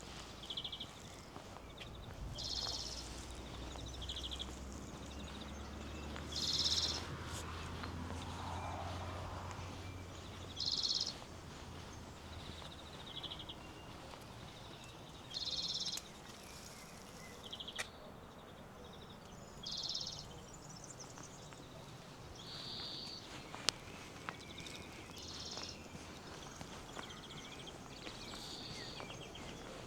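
A bird repeating short, high, trilled chirping phrases every few seconds, over faint footsteps and a low distant hum that fades about ten seconds in.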